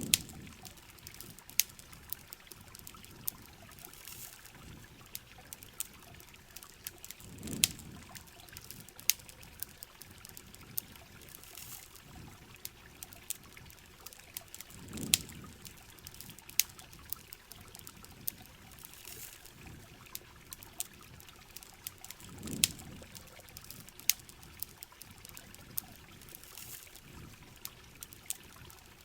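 Rain and running water as a steady hiss, dotted with frequent sharp clicks and pops like a crackling campfire. A soft low thump comes back about every seven and a half seconds, four times.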